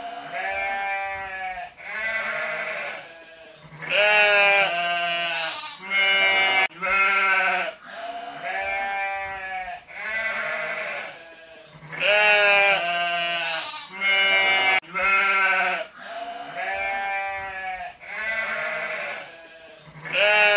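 Sheep bleating over and over: about a dozen wavering bleats in a row, each lasting a second or so.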